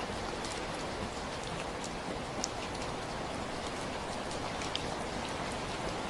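Steady rainfall: an even hiss of rain with scattered individual drops ticking sharply on a hard surface.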